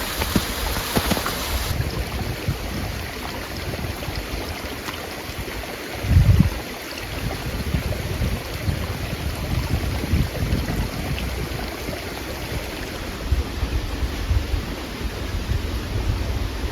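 Steady outdoor rushing noise with an uneven, gusty low rumble, and one dull thump about six seconds in.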